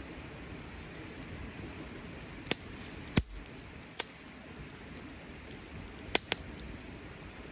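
Wood campfire burning with a steady hiss and a handful of sharp pops from the burning wood, the loudest a little over three seconds in and two close together near the end.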